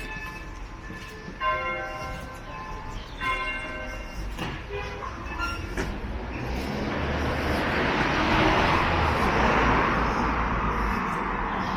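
A bell strikes slowly and rings out about four times, a stroke every second or two. From about halfway a passing train's rushing rumble swells, peaks and fades away near the end.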